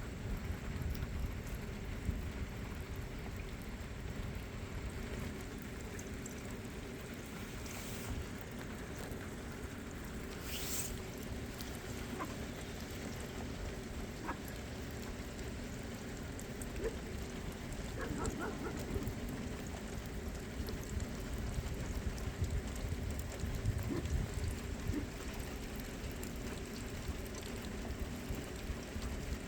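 Steady rain falling, with a few faint scattered taps.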